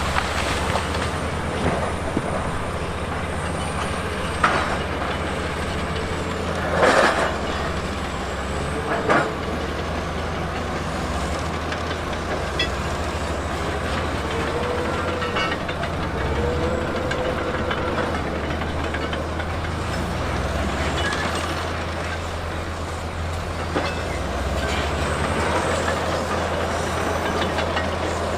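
A heavy earthmoving machine's diesel engine runs steadily, with a few sharp clanks in the first ten seconds and short squeals near the middle.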